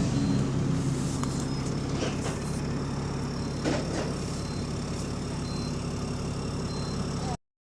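Diesel bus engine running steadily, with an exhaust leak, and a few faint knocks along the way. The sound cuts out suddenly near the end.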